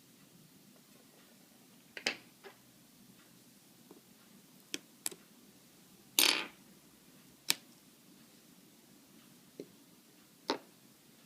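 Scattered small clicks and taps, with one longer, louder one about six seconds in: an iPhone and small repair tools being handled during disassembly.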